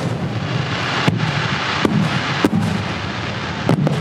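Aerial firework shells bursting: about five sharp booms roughly a second apart, over a continuous crackling hiss that swells in the middle.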